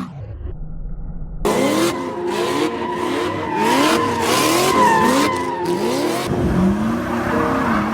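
A drifting car's engine revving in repeated rising sweeps while its tires squeal.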